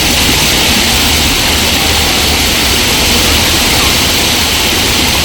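Park water fountain splashing steadily into its basin: a loud, even rush of falling water.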